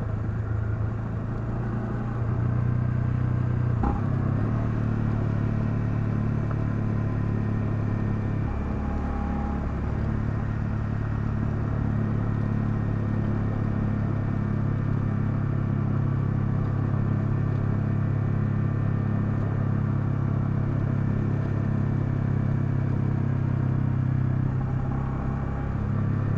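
Honda CL250 motorcycle engine running steadily under way, its note shifting in pitch a few times, with a single sharp click about four seconds in.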